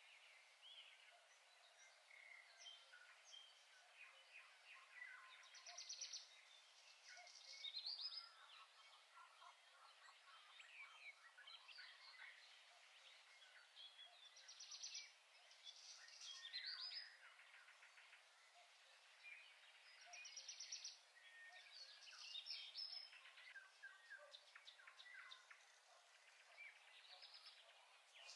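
Faint birdsong: several small songbirds chirping, with louder trilled phrases every few seconds.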